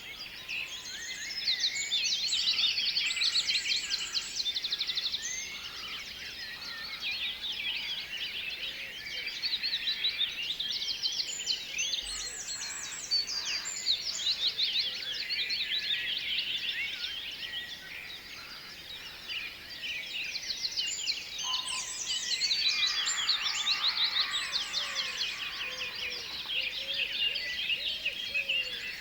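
A chorus of many small birds chirping and trilling at once, dense and overlapping. It swells for a few seconds near the start and again a little past the middle, and thins out in between.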